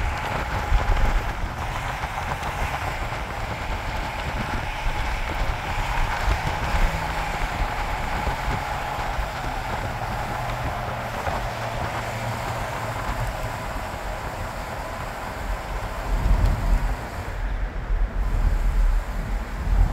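Double-stack intermodal freight train rolling past, a steady rumble and rattle of the wheels on the rails, growing louder with gusty low rumbling near the end.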